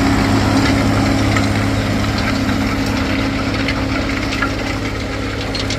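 John Deere 4430 tractor's six-cylinder diesel engine running steadily, with light rattling and clinking from the disc and roller it is pulling; it grows slightly fainter toward the end.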